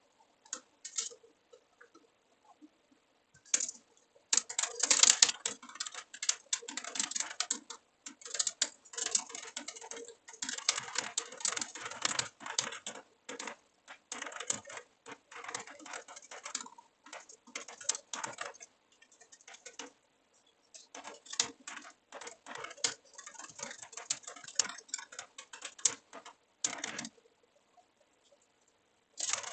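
Computer keyboard typing: rapid bursts of keystrokes with short pauses between them, stopping briefly about twenty seconds in and again near the end, over a faint steady hum.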